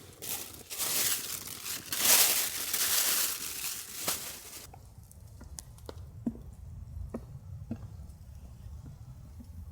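Loud crinkling, tearing-like rustle for about four and a half seconds, loudest in the middle, then stopping and giving way to a few faint clicks.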